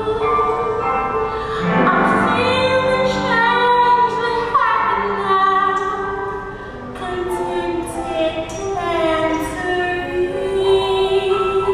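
Female voices singing a musical-theatre song with accompaniment, holding long notes that slide between pitches.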